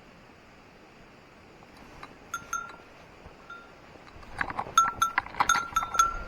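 A small metal bell jingling, a few rings about two seconds in and then rapid, irregular ringing from about four seconds on, with rustling as its carrier moves. Under it, a steady hiss of running stream water.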